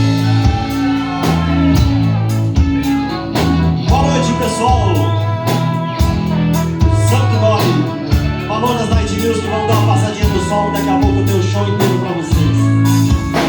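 A band playing the instrumental intro of a song live: drum kit keeping a steady beat under a bass line, with a guitar carrying the melody.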